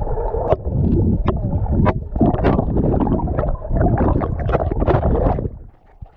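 Waves splashing and crashing against a kayak and its paddler: loud, churning water noise with many sharp slaps, dying away about five and a half seconds in.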